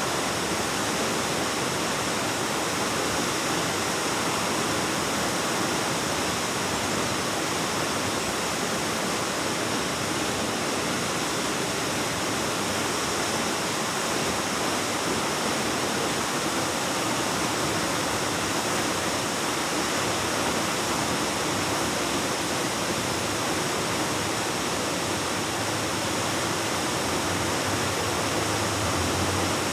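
Waterfall with a steady, unbroken rush of water that holds one even level throughout.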